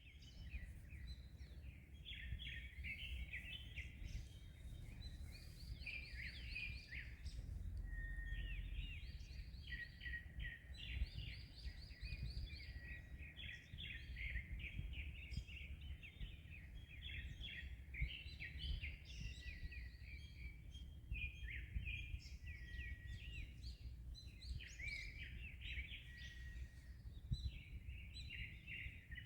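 Several birds chirping and calling in quick, overlapping phrases, over a low steady rumble of wind and waves.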